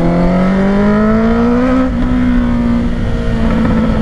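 Honda CBR650R's inline-four through a Black Widow exhaust with the dB killer removed, running loud under acceleration. The engine note rises for about two seconds, drops back suddenly, then holds roughly steady.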